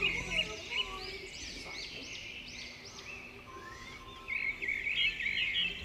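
Small birds chirping and twittering: many quick, overlapping chirps, busiest near the end.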